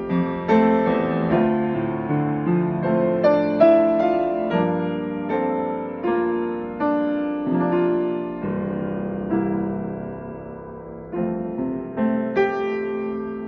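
Solo piano playing a slow hymn accompaniment, with notes and chords struck one after another and each dying away. About eight seconds in, a chord is held and fades for a few seconds before the playing picks up again.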